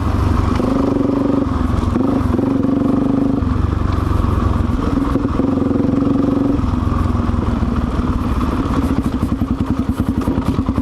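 Suzuki DR-Z400's single-cylinder engine running on the move. It holds a steady higher pitch in two stretches, then drops to a slow, even thumping beat at low revs over the last few seconds.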